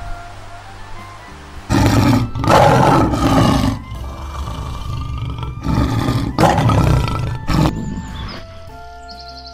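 Lion roaring, several loud, rough calls starting about two seconds in, over background music.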